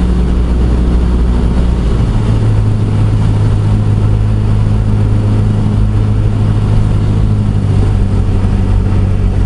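Cessna 172SP's four-cylinder Lycoming engine and propeller running steadily in flight, its note changing about two seconds in.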